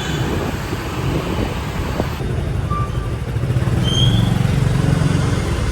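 Motor vehicle running: a steady low rumble with road noise, with a few brief high chirps partway through.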